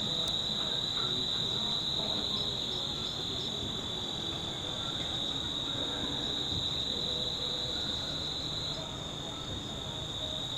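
Insect chorus: a steady, high-pitched, unbroken drone that dips slightly in pitch near the end.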